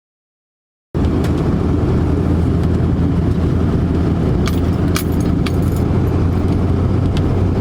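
Pickup truck driving, heard from inside the cab: a steady low engine and road rumble that starts abruptly about a second in, with a few light clicks.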